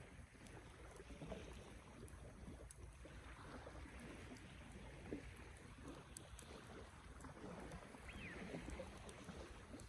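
Campfire burning faintly: a low flutter of flames with scattered small crackles and pops, and one brief high squeak about eight seconds in.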